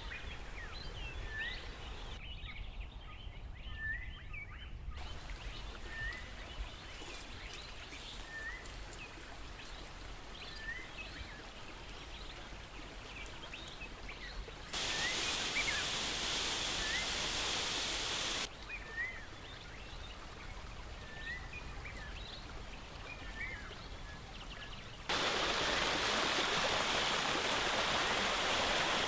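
Outdoor ambience with a bird repeating a short rising chirp about once a second. A rushing noise comes in for about four seconds midway, and rushing stream water takes over for the last four seconds.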